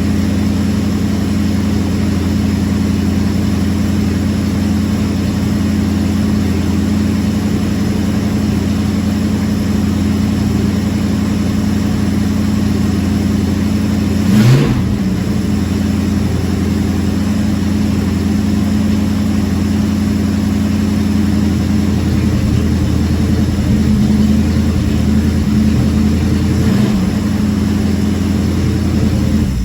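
Carbureted car engine idling steadily soon after a cold start, its carburetion freshly dialed in, with one short blip of the throttle about halfway through.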